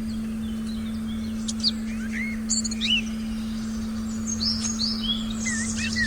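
Several small birds chirping and whistling in a forest ambience recording, with a cluster of quick calls in the second half. Under them runs a steady low electronic tone and a faint low rumble.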